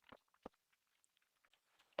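Near silence broken by a few faint, short clicks and taps.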